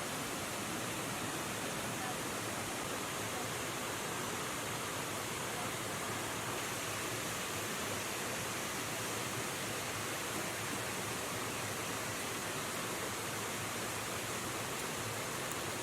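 River water rushing over rocks, a steady even hiss of flowing water.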